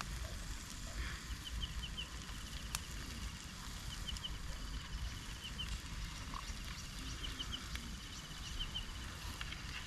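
Forest ambience: a high, rapid ticking call repeats about every second and a half, each run ending in two or three stronger notes, over a steady background hiss.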